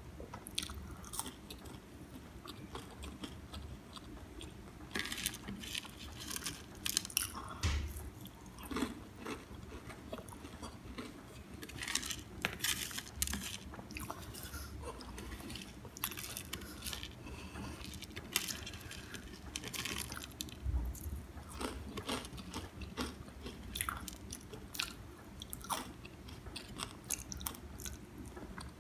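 Close-miked chewing and crunching of crispy fried vegetable pakoras, with many short, irregular crisp crackles.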